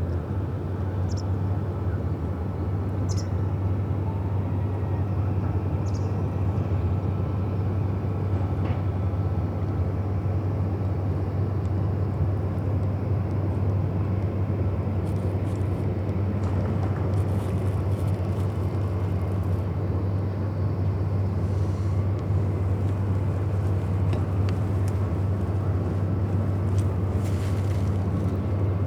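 Riverside city ambience dominated by a steady low engine rumble, with a few faint short high chirps scattered through it.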